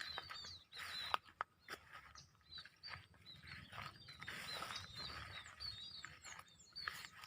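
A tame bird chirping in a quick series of short, high calls, mixed with bursts of rustling and a few sharp clicks.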